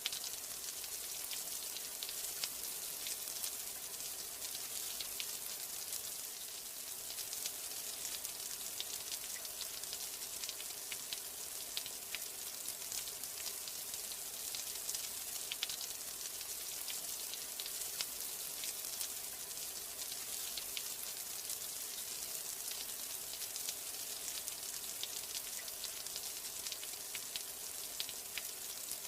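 Steady rain: a continuous high hiss dotted with many small, sharp drop ticks, even in level throughout.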